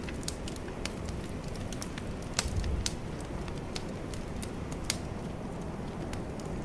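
Bonfire crackling, with irregular sharp pops of burning wood over a steady low rush, and a brief louder low rumble about two and a half seconds in.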